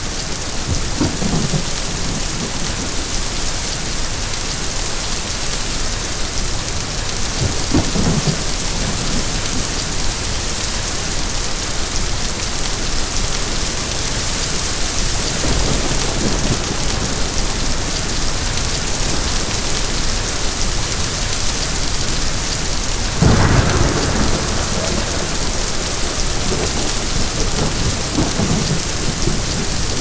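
Steady rain with thunder rumbling every several seconds, the loudest roll about three-quarters of the way through.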